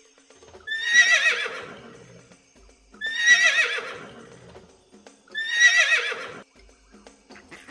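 A horse whinnying three times. Each whinny lasts about a second and a half, with a wavering, quavering pitch that starts high and falls away.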